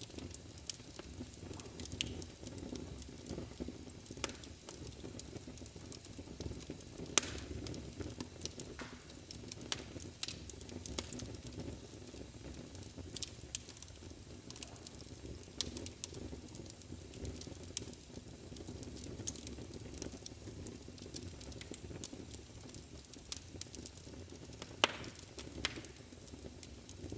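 Wood fire burning in a fireplace: a steady low rumble of flames with irregular crackles and sharp pops of burning logs, a few pops much louder than the rest.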